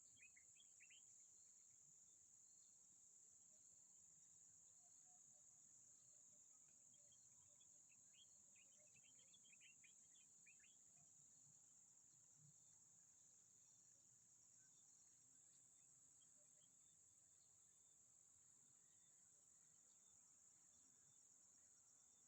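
Near silence with a faint, steady high-pitched insect drone, and a few faint chirps near the start and again about halfway through.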